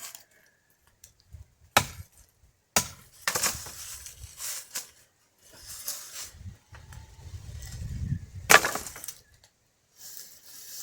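Dry firewood being handled and broken: three sharp wooden knocks or cracks, two close together about two seconds in and one more about eight seconds in, with rustling and scraping of branches between them.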